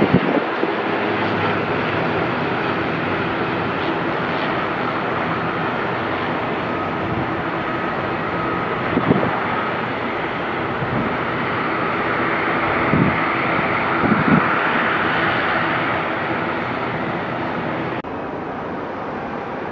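Airliner engines during a landing: a steady rushing whine with a faint high tone that swells past the middle, then drops suddenly near the end. A few short low thumps are heard along the way.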